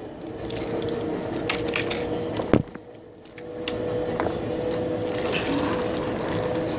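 R142A subway car running between stations: a steady hum from the car with scattered clicks and rattles, a sharp knock about two and a half seconds in, then a brief quieter stretch.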